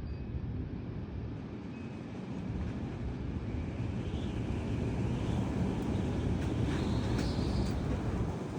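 Gusty thunderstorm wind blowing hard, a low rushing rumble that grows louder over the second half.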